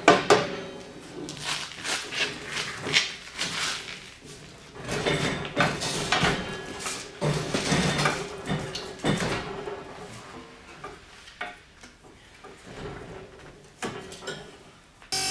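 Irregular clinks, knocks and clatter of metal tools and parts being handled and struck during work on a car's rear axle and suspension. At the very end it cuts abruptly to a steady whirring noise.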